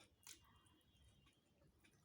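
Near silence with faint eating sounds: one sharp wet mouth click about a third of a second in, then a few soft ticks of chewing.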